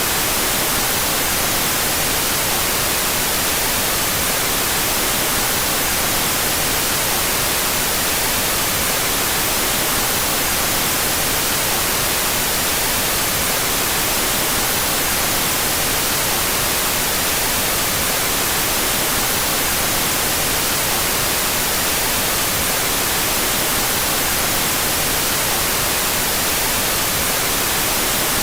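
Steady, unchanging white noise: an even hiss across the whole range, brightest in the highs, mixed out of phase between the stereo channels.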